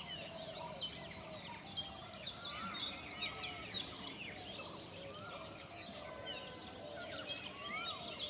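A dense chorus of many birds chirping and calling at once, with quick overlapping high notes that rise and fall, and some lower wavering calls beneath.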